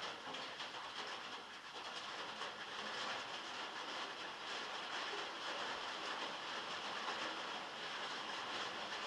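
Heavy rain falling on a metal roof, heard from inside a log shed: a steady, dense patter of drops on the metal.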